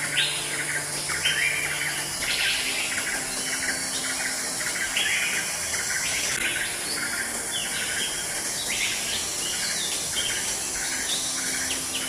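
Wild birds giving short, repeated chirps, several in quick succession at times, over a steady high hiss.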